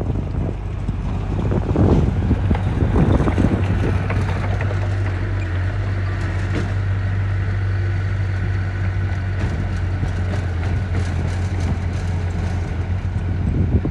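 Heavy construction machine's diesel engine running with a steady deep drone. It surges louder about two to three seconds in, and a run of quick rattling clicks comes about two-thirds of the way through.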